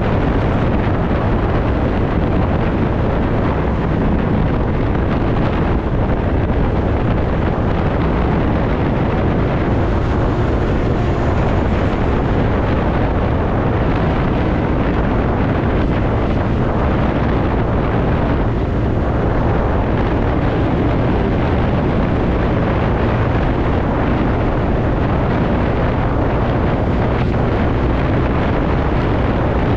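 Steady wind rushing over the microphone of a moving TVS Ntorq scooter, with the scooter's engine and road noise underneath.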